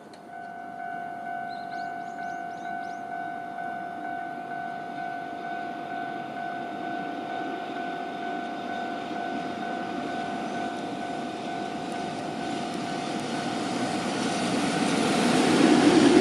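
Japanese freight train approaching along the line, its rumble growing steadily louder toward the end. A steady high two-note tone sounds from just after the start and fades out about three-quarters of the way through, with a few short chirps early on.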